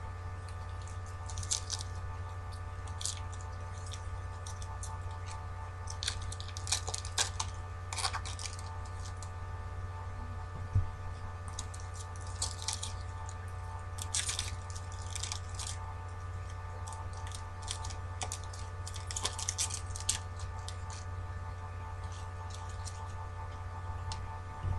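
Foil packs of trading cards being crinkled and opened and the cards handled, in short bursts of crackly rustling, over a steady electrical hum.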